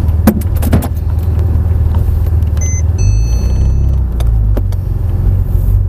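Car engine running hard, heard from inside the roll-caged cabin as a heavy low drone, with a few sharp clicks and rattles in the first second and a brief thin high tone near the middle.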